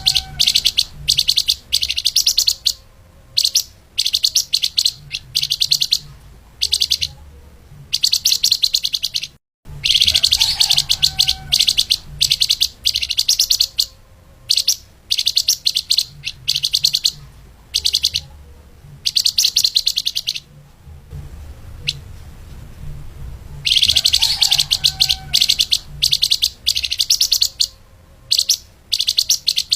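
Flamboyan (lemahan) songbird singing fast, dense high-pitched chirping phrases in repeated bursts with short pauses between them. The recording drops out briefly about nine and a half seconds in.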